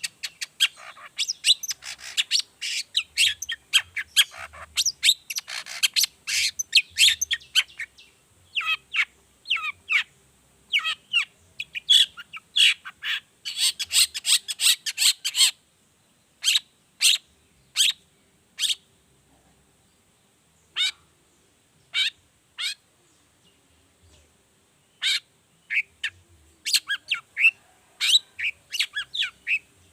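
Long-tailed shrike (cendet) singing in rapid chattering runs of sharp, high notes. The song thins to single, spaced calls about halfway through, then picks back up into quick runs near the end.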